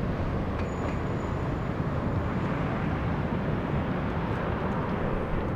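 Jet airliner engines making a steady rumble that holds at an even level.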